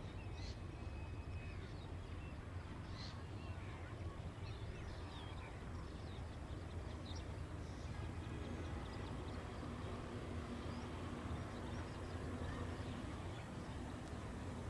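Birds chirping over a steady low rumble, with a faint low hum coming in from about halfway.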